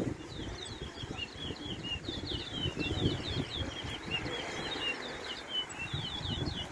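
Caged towa-towa finch singing a fast, continuous string of high chirps and trills, as in a bird song race where each song is counted. A steady low rumble runs underneath.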